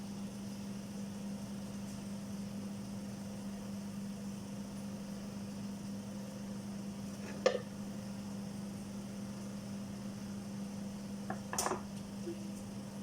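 Steady low hum of a running oven, broken by one sharp click about halfway through and a brief clatter of small knocks near the end.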